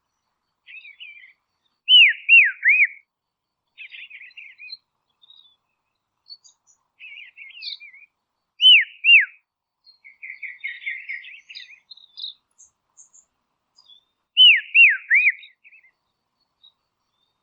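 A songbird singing: three groups of loud, clear whistled notes, each note sweeping down in pitch. The groups have three notes, then two, then three, and come about two seconds in, near the middle and toward the end. Quieter scratchy twittering fills the gaps between them.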